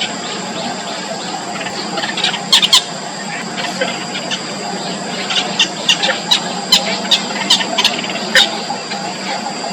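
Nestlings begging with short, high-pitched cheeps: a few about two and a half seconds in, then a quick run of them from about five and a half to eight and a half seconds, over a steady high-pitched background tone.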